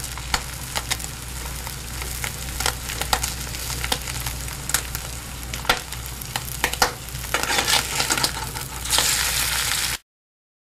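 Food deep-frying in hot oil: a steady sizzle full of frequent crackles and pops over a low hum, growing louder near the end and then cutting off suddenly.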